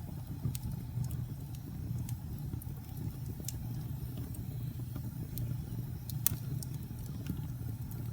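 Wood fire crackling in a fireplace: scattered sharp pops and snaps over a steady low rumble, with one louder pop about six seconds in.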